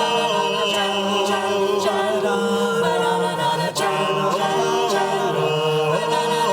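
A cappella group singing: several voices holding sustained chords, with no instruments. A short sharp click or percussive hit comes near the middle.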